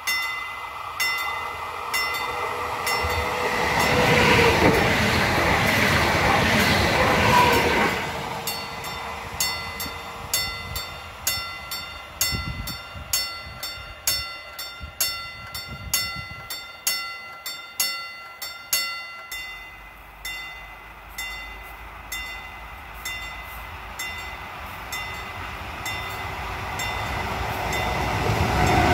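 Electric trains on an electrified line. A passenger train passes early on with a rush of wheel and rail noise. Through the first two-thirds a level-crossing warning bell strikes repeatedly, about once every 0.7 s, and near the end an electric locomotive hauling open freight wagons approaches with a rising rush.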